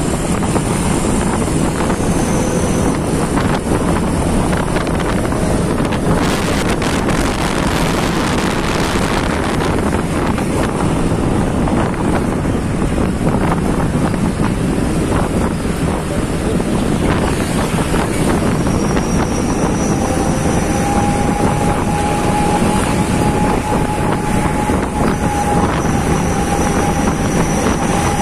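Truck on the move, with steady engine and road noise and wind rushing over the microphone. A faint steady whine comes in about two-thirds of the way through.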